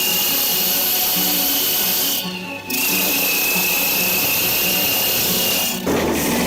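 Small engine of a Tofalar 600 motorized snow tow-dog running hard at high revs, dropping out briefly about two seconds in, with background music.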